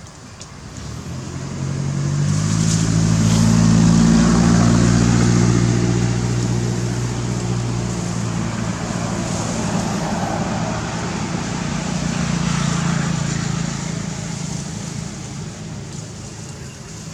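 A motor vehicle passing by: its engine hum rises in over the first few seconds, is loudest a few seconds in, then slowly fades away.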